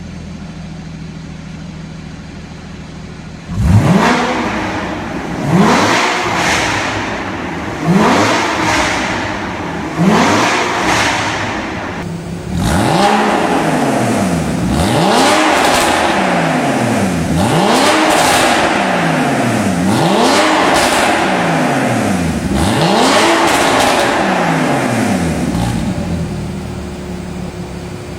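Porsche 981 Cayman flat-six through an Armytrix valved exhaust, idling and then revved: four sharp throttle blips about two seconds apart, followed by about six longer revs that rise and fall every couple of seconds, before it drops back to idle near the end.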